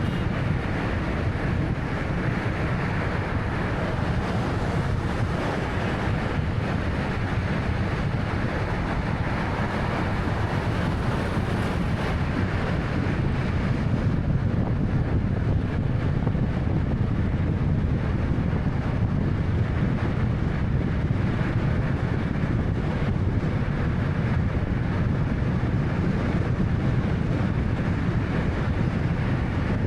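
Steady road noise of a 2013 Honda Fit driving at speed: low tyre rumble and engine noise with a haze of wind, growing a little louder about halfway through.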